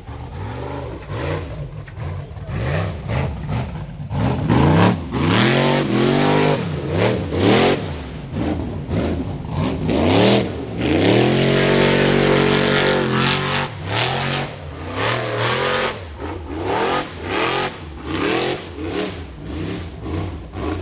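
Rock bouncer buggy's engine revving hard in repeated throttle bursts, the pitch rising and falling with each stab, with one longer held rev a little past the middle.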